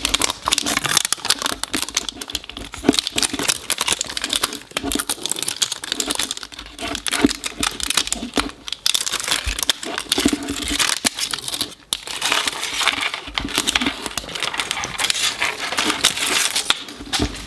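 Wrapping being peeled off and crumpled by hand as the first layer of a toy surprise ball is unwrapped: a continuous, irregular crinkling and crackling with some tearing.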